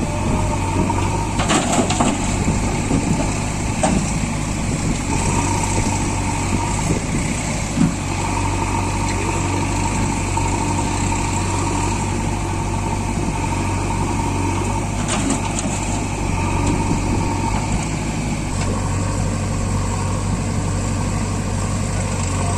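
Tractor diesel engine running steadily at an even pitch, with a couple of brief knocks about a second and a half in and again around fifteen seconds in.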